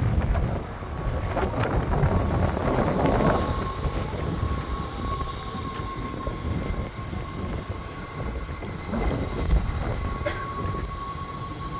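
NS Sprinter electric train running in alongside a station platform, its wheels rumbling on the rails. A steady high whine sets in about a second and a half in, and a few sharp clicks come from the wheels and track.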